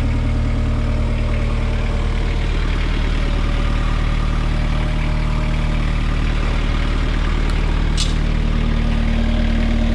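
Kubota four-cylinder diesel engine of a Toro Reelmaster 5410 mower running steadily.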